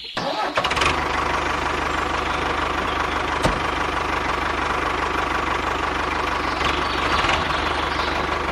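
Engine running steadily with a fast, even chatter; it starts abruptly.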